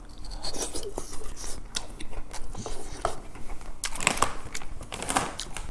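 A person chewing and crunching a mouthful of food close to the microphone, with irregular crisp clicks that bunch up about four and five seconds in.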